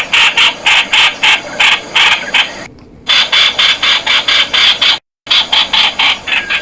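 Streak-eared bulbul calling: a rapid run of sharp, harsh notes, about four to five a second. The calling pauses briefly about halfway through and cuts out for a moment near the end.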